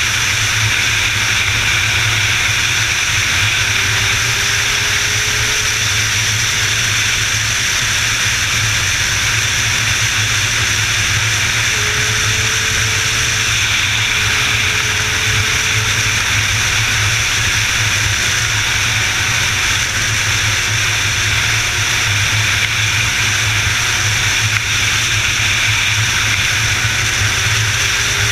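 Steady rush of wind and road noise from a motorcycle travelling at speed, with a low engine hum and faint tones that drift slightly in pitch now and then.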